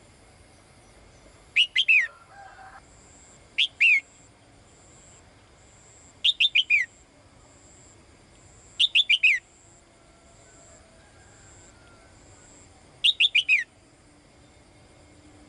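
Caged female songbird calling: five short phrases, each a quick run of three to five high notes sliding downward, repeated every few seconds. It is the call a female gives to call a male.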